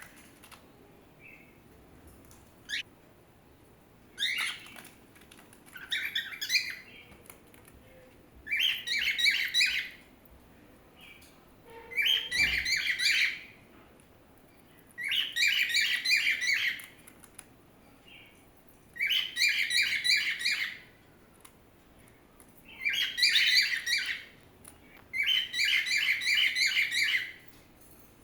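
Small pet birds chirping in repeated bursts of rapid twittering, each burst a second or two long with short pauses between, about eight bursts in all.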